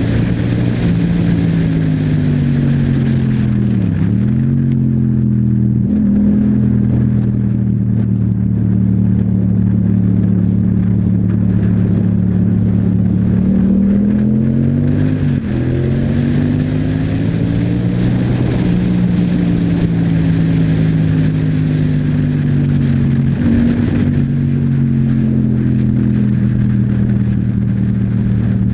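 Yamaha MT-07's parallel-twin engine running through an Akrapovic exhaust while riding through town. Its pitch holds mostly steady but drops sharply and climbs back twice, about four seconds in and again around fifteen seconds.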